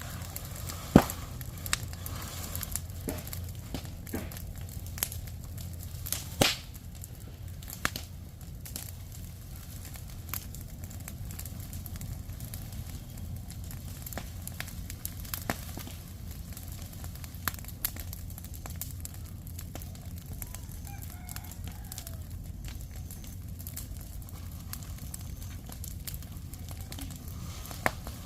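Chickens clucking faintly, with sharp clicks and knocks scattered throughout over a steady low hum.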